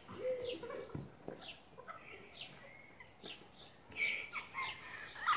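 A bird chirping, a short falling chirp repeated about twice a second, with a single dull thud about a second in.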